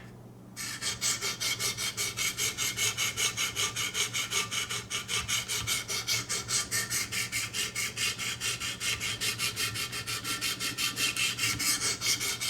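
200-grit diamond stones of a Wicked Edge guided sharpener stroking along a VG-10 knife blade, grinding in the bevel. Quick, even rasping strokes, about five a second, begin about half a second in.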